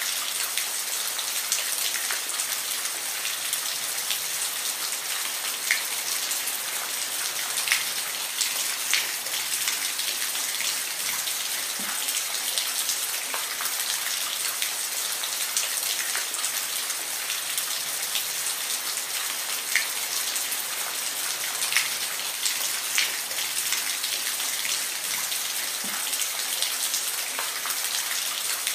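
Steady rain falling, a continuous hiss with scattered individual drops ticking sharply on a surface.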